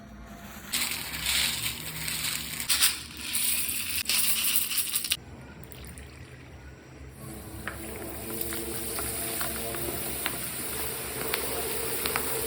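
Kitchen food-preparation sounds: a loud hissing, clattering noise for about four seconds that cuts off suddenly, then, after a short lull, a steady hiss with scattered sharp pops.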